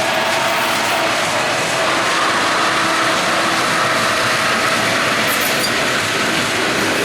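Union Pacific freight train rolling past at close range: a steady, loud noise of wheels on rail.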